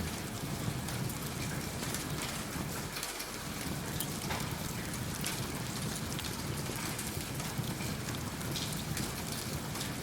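Steady rain falling, with small sharp crackles from a wood fire in a fireplace scattered through it.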